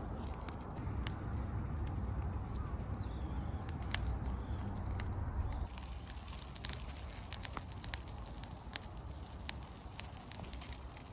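Wood campfire crackling with scattered sharp pops, over a low rumble that drops away about halfway through.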